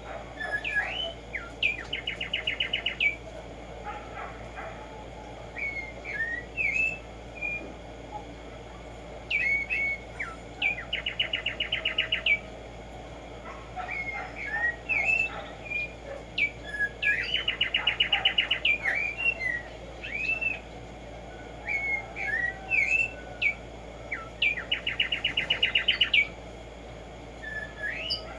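Black-striped sparrow (Arremonops conirostris) singing: each song is a few short slurred whistled notes followed by a fast, even trill about a second long, repeated four times with scattered chirps in between.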